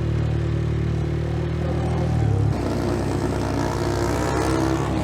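125 cc single-cylinder motorcycle engine running while being ridden. It holds a steady note at first, changes about halfway through, then climbs in pitch as the bike picks up speed.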